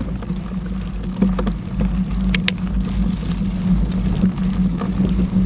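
Mountain bike rolling along a forest trail: a steady rumbling hum from the tyres and frame, with a few sharp rattling clicks a little over a second in and again about halfway through.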